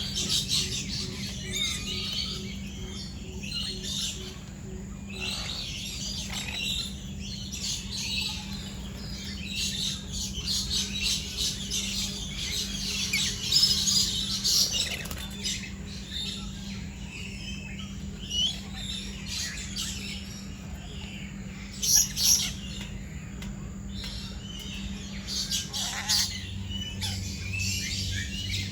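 Many birds chirping and calling together, a dense stream of short high calls with a few louder sharp calls about halfway through and again about two-thirds of the way through, over a steady low hum.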